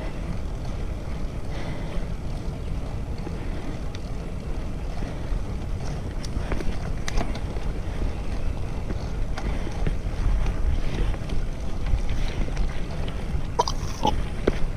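Wind buffeting the microphone on a moving bicycle, a steady low rumble, with a few light clicks and a couple of short chirps near the end.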